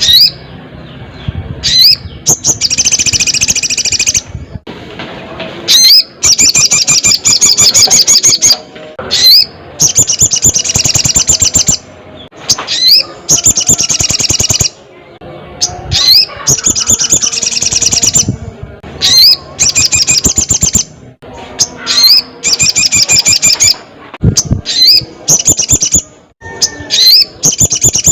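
Ruby-cheeked sunbird (sogon) singing loudly and persistently. It repeats rapid, high trills about a second long, with short upward-slurred notes between them.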